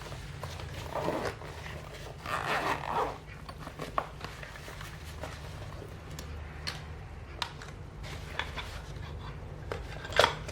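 Hands handling things at a workbench: short rustles about a second in and again around two to three seconds, then scattered small clicks and taps, the sharpest near the end, over a steady low hum.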